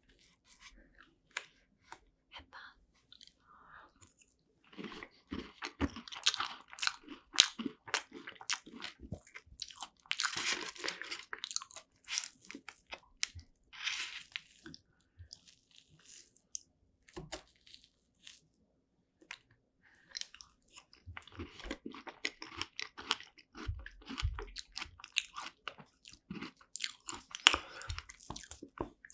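Close-miked chewing and crunching of forkfuls of strawberry rare cheese tart, in two long bouts with a quieter pause between them.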